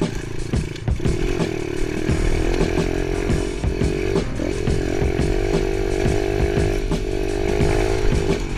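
Small dirt bike engine running at fairly steady revs while being ridden, with many short clicks and knocks throughout.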